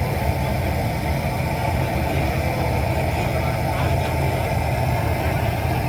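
Classic farm tractor engine running steadily at idle.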